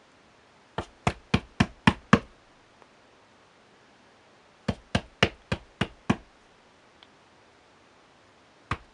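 Someone pounding on a door: a quick run of six knocks, about four a second, then a pause of a couple of seconds, another run of six, and a third run starting near the end.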